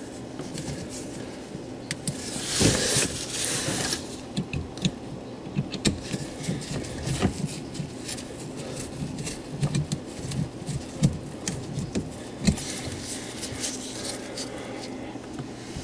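Knocks, clicks and scrapes of hands working the drain hose loose beneath a dishwasher, with a brief rush of noise about three seconds in, over a steady low hum.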